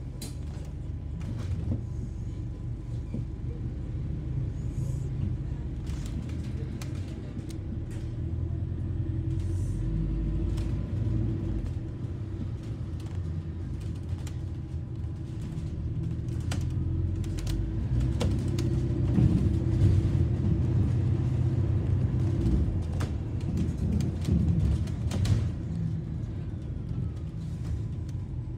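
London double-decker bus on the move, heard from inside: a steady low rumble of engine and road with scattered rattles and clicks. It grows louder for a few seconds around two-thirds of the way through as the bus picks up speed.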